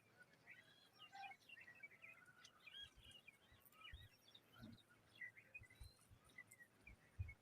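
Faint, rapid bird chirping: many short high notes, with a few soft low thumps, the loudest near the end.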